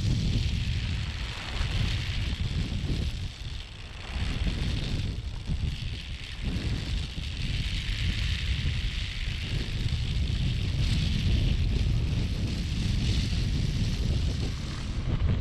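Strong gusty wind buffeting the microphone with a heavy, uneven rumble, over a hissing rush that swells and fades with the gusts.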